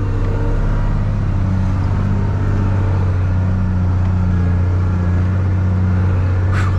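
Mercedes Unimog U1700L truck's diesel engine running with a steady, even drone.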